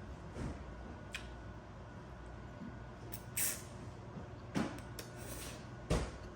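Household kitchen noise: a few short knocks and clicks and one brief hiss over a steady background din of someone cooking, mixed with the close clatter of eating from a plate.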